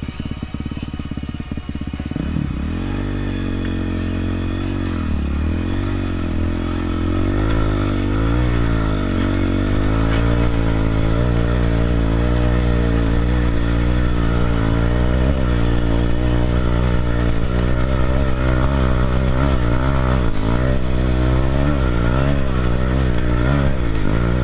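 Dirt bike engine revving up and down over and over, its pitch rising and falling every second or so, from about two seconds in.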